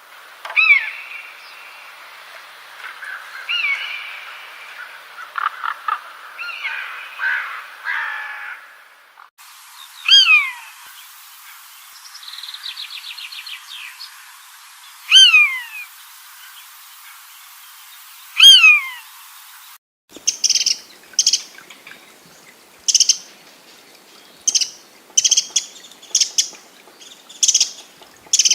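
Birds calling in three spliced recordings: first a mix of varied calls, then a loud whistled note sweeping downward, repeated every few seconds with a short trill between, and finally short high chirps repeated about once a second.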